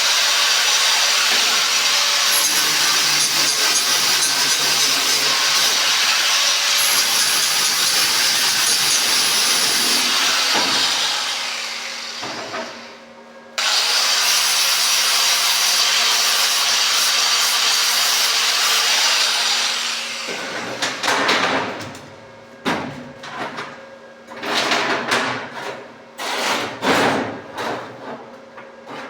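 Angle grinder with a flap disc sanding down the welds on a steel padlock, running steadily, then spinning down about eleven seconds in. It starts again abruptly a moment later, and near the end it makes a series of short grinding passes.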